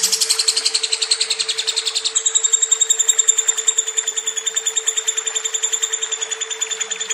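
Lovebird singing a long, unbroken run of rapid high chirps at about ten a second, with the pattern shifting about two seconds in. A steady low hum runs underneath.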